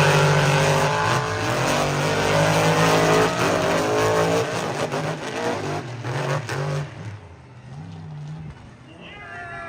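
Monster truck engines, supercharged big-block V8s, revving and running hard as two trucks race, the pitch rising and falling with the throttle. The engine sound drops away about seven seconds in.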